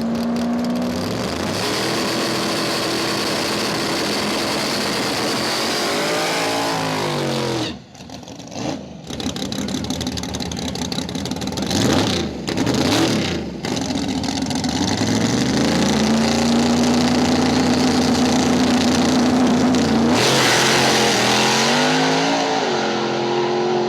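Engines of Mustang drag cars running at full throttle down the strip. The pitch climbs and holds high for several seconds, drops sharply about eight seconds in, and one car sweeps past a few seconds later. Near the end an engine climbs and holds high again, then revs once more.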